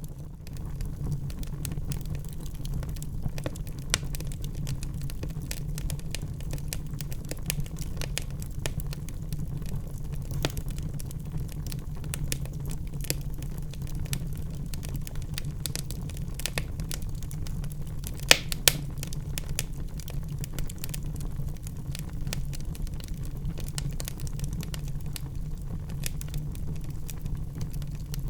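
Wood fire burning in a fireplace: a steady low rumble of flames under constant irregular crackles and small pops, with two sharper pops close together about two-thirds of the way through.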